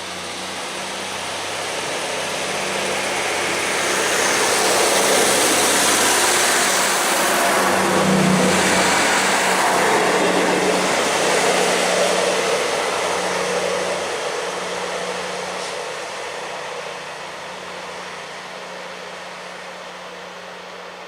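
Class 158 diesel multiple unit pulling out of the station, its underfloor diesel engines droning with a steady low note under the rushing of wheels on rail. The sound swells as the train passes, is loudest about a quarter to halfway through, then fades away.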